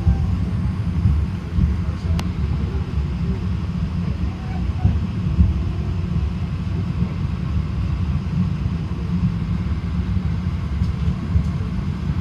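Steady low rumble of a Stadler-built cog railway train climbing a steep grade, its cogs meshing with the toothed centre rail, heard from inside the car.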